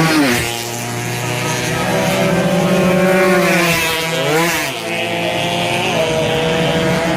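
Two-stroke racing motorcycle engines running at high revs. The pitch drops sharply right at the start, holds steady, then dips and climbs again about four seconds in, as the bikes shift gears or pass by.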